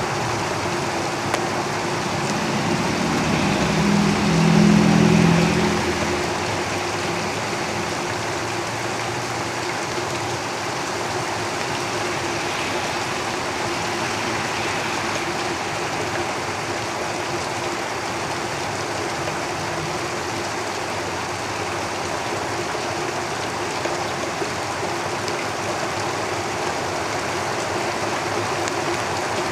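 Steady rain falling on a tin roof, with a road vehicle's engine passing by, rising to its loudest about five seconds in and then fading.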